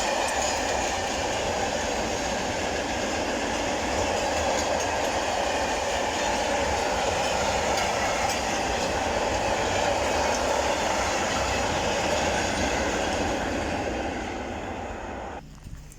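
A freight train of powder-tank wagons rolling steadily past, its wheels clattering over the rail joints, with a faint squeal from the wheels. The noise stops abruptly near the end.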